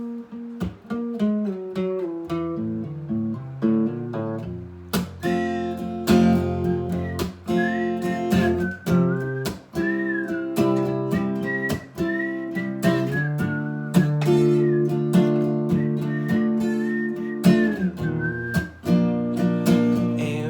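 Acoustic guitar played in an instrumental break: picked notes at first, then steady strummed chords from about five seconds in. A whistled melody runs over the strumming from about six seconds in until shortly before the end.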